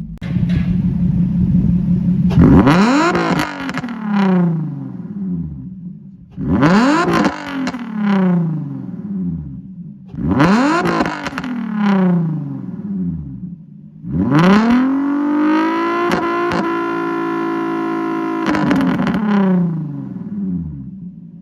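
Nissan VQ35DE 3.5-litre V6 being revved from idle: three short blips of the throttle, each rising and falling back, then one rev held steady at higher speed for about four seconds before dropping back to idle.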